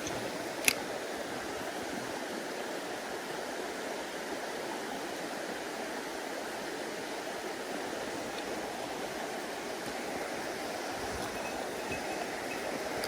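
Mountain stream water rushing steadily over rocks. One sharp click a little under a second in.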